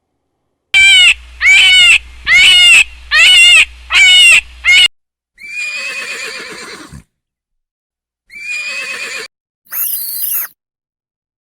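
Animal calls: five short, loud calls in quick succession, then two longer wavering calls and a brief high-pitched sound near the end.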